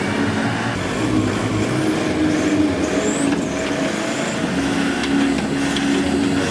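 Motor vehicle engine running steadily, its pitch shifting a little as it works.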